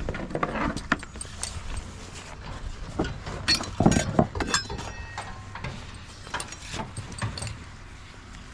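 Front-discharge concrete mixer truck running with a steady low rumble, under a scatter of irregular metallic clicks and rattles that are loudest around the middle.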